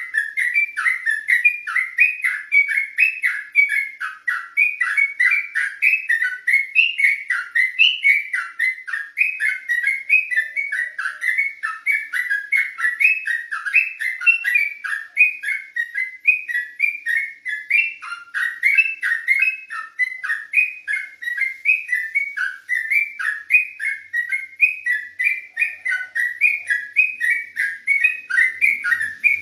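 Yellow-vented bulbul (trucukan) singing nonstop in a rapid, unbroken run of short warbling notes, about two or three a second.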